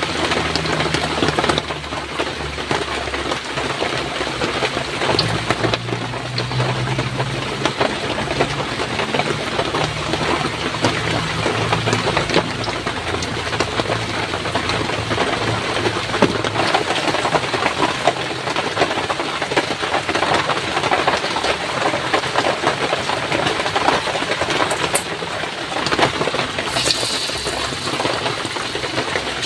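Heavy rain falling steadily and loudly, with a low hum underneath during roughly the first twelve seconds.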